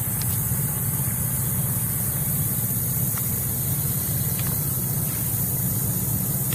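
Steady low engine drone, like idling trucks, with a steady high-pitched hiss over it.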